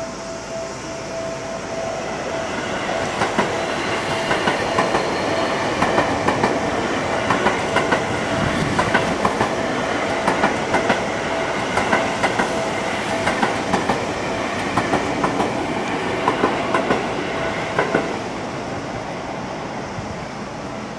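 Seibu 40000-series electric commuter train passing through the station without stopping, its wheels clattering in quick runs over the rail joints. The clatter builds as the train comes close, runs on for about fifteen seconds, and drops off near the end. A steady ringing tone from the level-crossing warning bell can be heard at the start.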